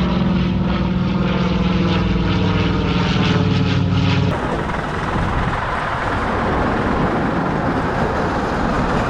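Propeller aircraft engines droning steadily overhead. About four seconds in the sound cuts abruptly to a steady rushing noise.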